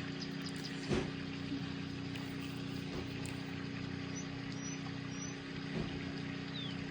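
Steady low background hum, with a soft knock about a second in and another near the end, and a few faint high chirps.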